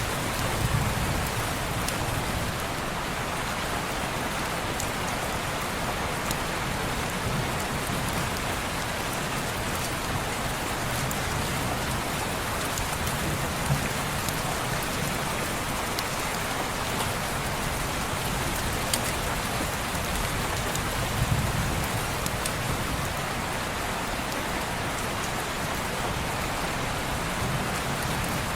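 Steady heavy rain falling on window glass, an even dense hiss with scattered sharp ticks, and a few soft low rumbles swelling and fading.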